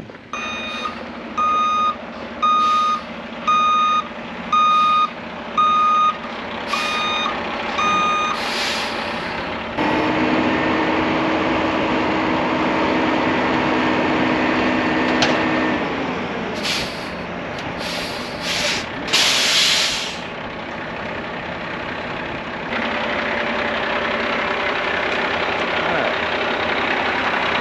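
Backup alarm of a piece of heavy equipment beeping about once a second for roughly eight beeps, then stopping. The diesel machine's engine keeps running steadily, with a few short hisses part-way through.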